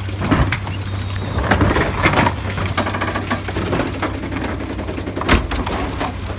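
Garbage truck engine running with a steady low hum while trash and recyclables clatter and crash as they are dumped and crushed, with sharp knocks, the loudest about five seconds in.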